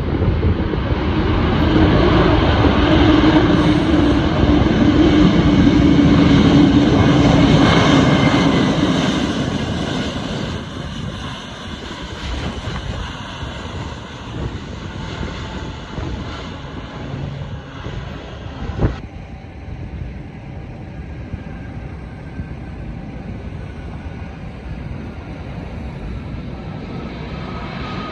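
Jet airliner arriving and passing close by, loud for the first ten seconds or so with a steady low drone, then fading to a distant rumble with faint falling engine whines as it moves away. A single sharp click about two-thirds through.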